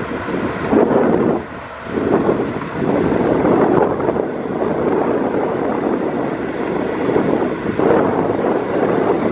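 Heavy diesel earthmoving machinery running steadily, with a short drop in level about one and a half seconds in.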